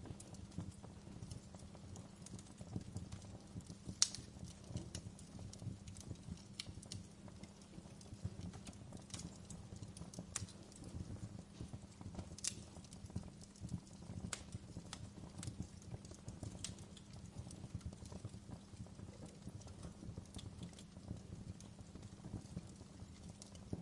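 Wood fire crackling in a fireplace: irregular sharp pops and snaps over a steady low rumble, with one louder pop about four seconds in.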